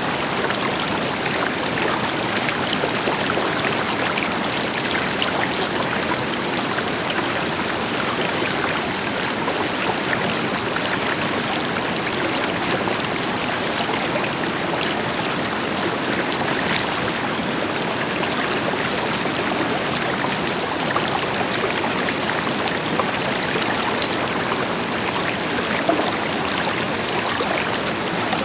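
A river flowing steadily over rocks, with a soft waterfall blending in as a deeper rush and small splashes flickering through.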